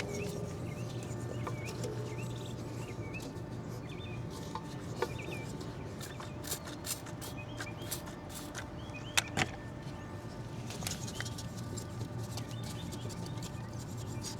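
Small birds chirping repeatedly over a steady low hum, with a couple of sharp clicks about nine seconds in.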